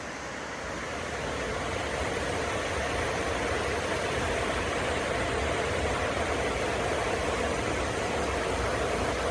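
Steady rushing hiss of sleet coming down, building over the first couple of seconds and then holding even.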